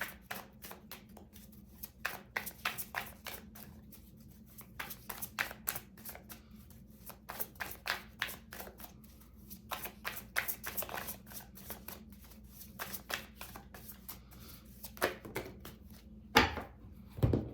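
A deck of tarot cards being shuffled by hand: a continuous, irregular patter of card edges clicking and sliding, with a couple of louder strokes near the end.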